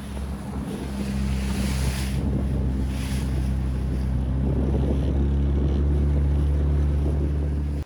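Outboard motor on an inflatable boat running steadily, getting louder, with wind buffeting the microphone and hissing washes of spray from the waves. The sound cuts off suddenly near the end.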